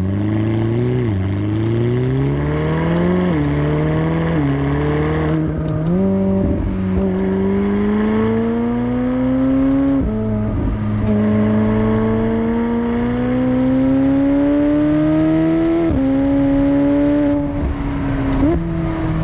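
McLaren 750S twin-turbocharged 4.0-litre V8 accelerating through the gears. Engine speed climbs and drops sharply at each upshift, about seven times, with the climbs between shifts growing longer and slower.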